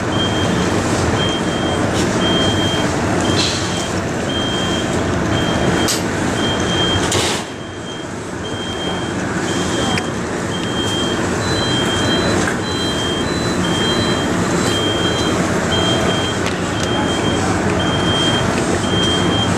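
A stopped MARC commuter train's diesel locomotive running steadily, with a high electronic beep repeating about once a second. A short burst of air hiss comes about seven seconds in, and the engine noise dips briefly after it.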